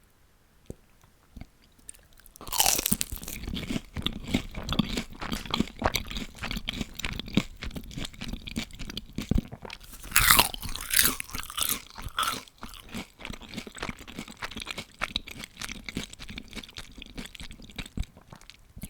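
Bites into crispy deep-fried food followed by steady crunchy chewing. There is one loud crunching bite about two and a half seconds in and another about ten seconds in, with a few light clicks before the first.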